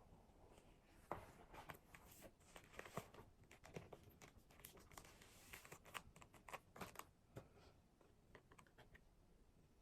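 Faint, scattered clicks and rustling, as of small objects being handled.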